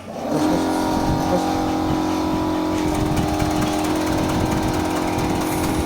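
Electric cassava chip slicing machine switching on just after the start and then running steadily with an even hum and a whirring, rattling blade disc.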